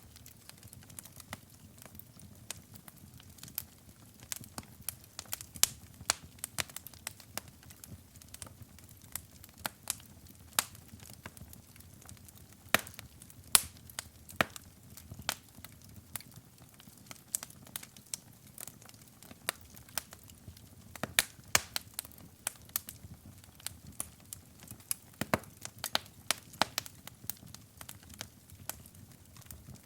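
Wood fire burning in a fireplace, crackling with irregular sharp pops and snaps over a soft low rumble of flame.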